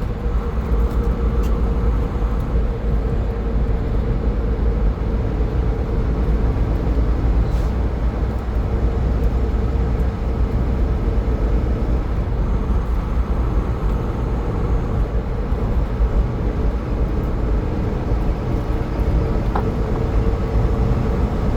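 Car driving at highway speed: a steady low rumble of road and engine noise with a constant hum.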